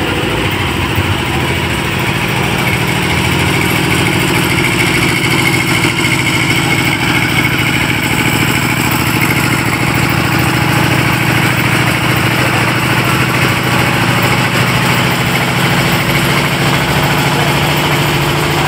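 A large engine idling steadily, with no change in speed.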